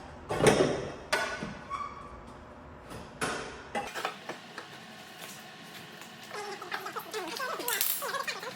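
Metal clanking and clatter as exhaust parts are handled and set down, with a sharp knock about half a second in and a run of short squeaky scrapes near the end.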